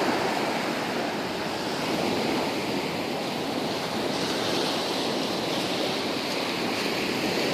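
Ocean waves crashing on the shore, a steady, continuous wash of surf with no single break standing out.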